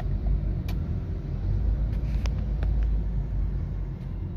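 Toyota Corolla XLi engine running at low revs, around 1000 rpm, heard from inside the cabin as a steady low rumble. A few light clicks sound over it.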